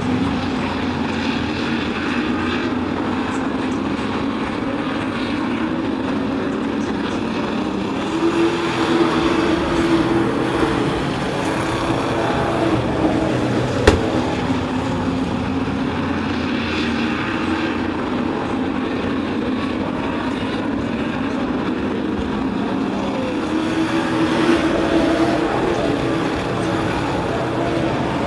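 Sport trucks racing on a short oval track: a steady engine drone, swelling louder as the pack passes about eight seconds in and again near the end. One sharp click about halfway through.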